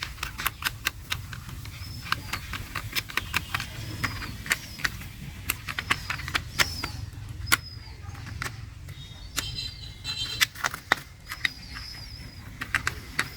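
Irregular small clicks and taps of plastic toy vehicle parts being handled and screwed together, with high short chirps of birds between them.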